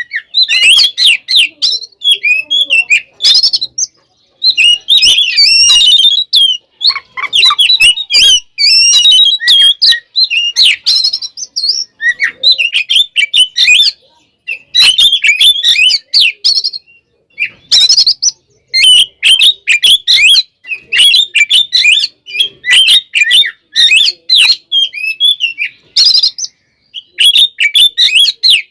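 Oriental magpie-robin singing a loud, fast, varied song in fighting mood. The song comes in bursts of rapid chirps and whistles lasting a second or few, broken by short pauses.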